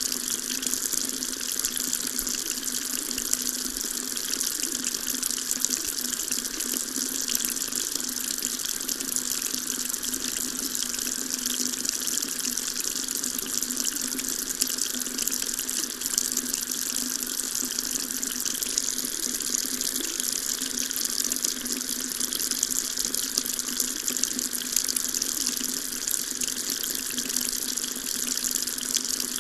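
Water tap running steadily into a sink, an even splashing hiss.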